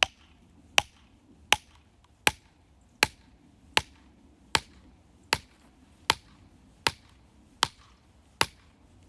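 Hammer striking wood or metal in a steady rhythm, twelve sharp knocks, about one every three-quarters of a second.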